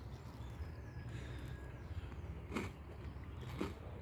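A person chewing a mouthful of toast topped with pigeon escabeche close to the microphone, with a couple of short crunches in the second half.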